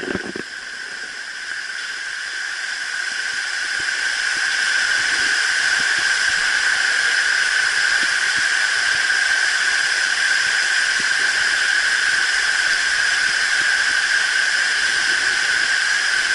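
Steady rush of a waterfall, getting louder over the first few seconds and then holding steady.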